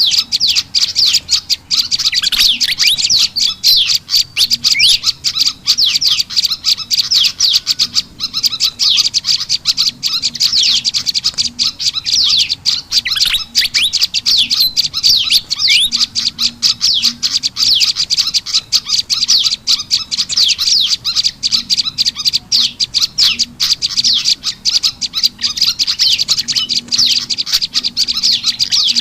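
Bird-lure recording of olive-backed tailorbird calls mixed with pied fantail calls. Rapid, high-pitched chirps and short sweeping notes follow each other many times a second without a break, in a busy, loud chatter.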